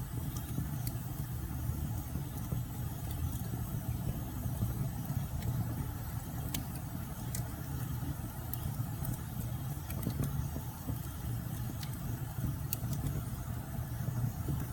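Wood fire burning: a steady low rumble of flames with irregular sharp crackles and snaps from the logs.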